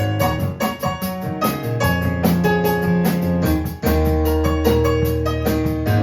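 Live kids' band playing an instrumental passage: electric keyboard chords over held bass notes, with a steady, quick high ticking rhythm on top.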